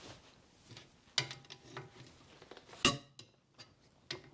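Two sharp metallic clinks, about a second and a half apart, each with a brief ring, and a few lighter ticks between them: a 17 mm socket and wrench being worked on a steel wheel's bolts as they are cracked loose.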